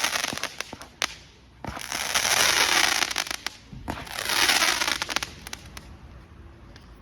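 Consumer firework cake firing: three waves of loud, dense crackle, with two sharp bangs about a second in and shortly after, dying away over the last couple of seconds.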